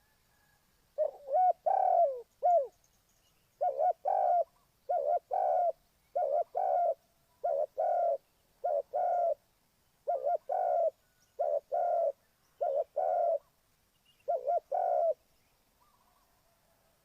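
Spotted dove cooing: a low two-note phrase repeated about ten times, roughly once every second and a bit, stopping a couple of seconds before the end.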